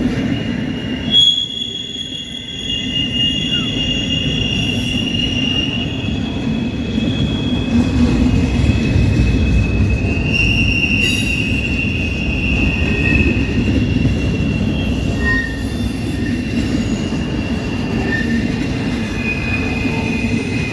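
Freight train's intermodal cars rolling past: a steady rumble of steel wheels on rail, with long, drawn-out high wheel squeals rising and fading over it. A sharp click comes about a second in and another about eleven seconds in.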